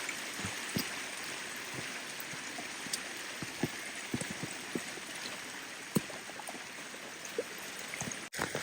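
Steady rain, an even hiss with scattered louder single drops landing close by. The sound drops out for an instant near the end.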